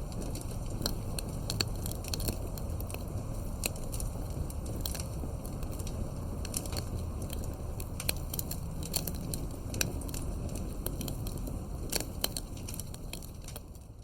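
Fireplace fire crackling: irregular sharp pops and snaps over a low steady rumble. It fades out near the end.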